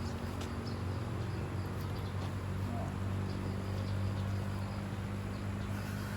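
Outdoor ambience: a steady low hum with faint, scattered insect chirps and ticks above it.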